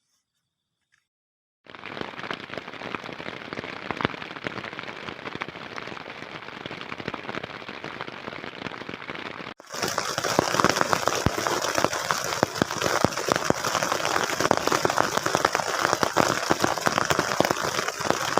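Heavy rain falling, a dense pattering crackle of drops. It starts suddenly about two seconds in and cuts abruptly to louder, brighter rain about ten seconds in.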